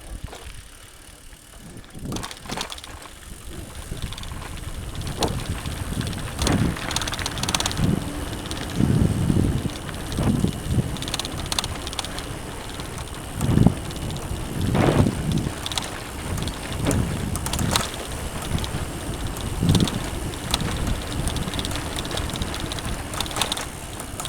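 Mountain bike riding along a dirt trail: tyre noise and irregular knocks and rattles over bumps, with wind on the microphone.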